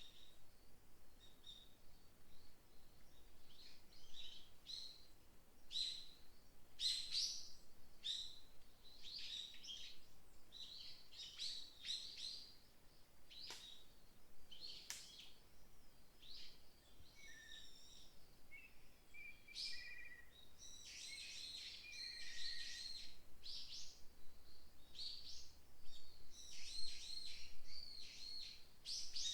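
Wild songbirds chirping and calling, with short high notes in loose clusters. A few lower whistled notes come about two-thirds in, and the chirping grows busier and louder near the end.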